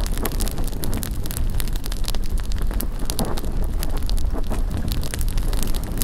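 Bonfire crackling with frequent sharp pops, over a low rumble of wind on the microphone.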